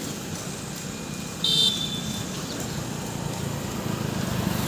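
Motorcycle engine of a bike-based saneda farm vehicle running steadily, with one short high beep of a horn about a second and a half in.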